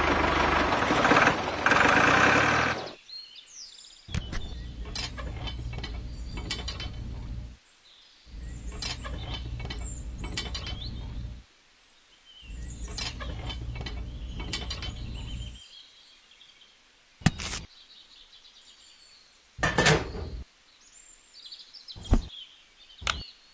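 A loud noise that stops about three seconds in, then a small geared motor runs in three bursts of about three seconds each, a steady low rumble with fine gear clicking, followed by a few short sharp knocks near the end.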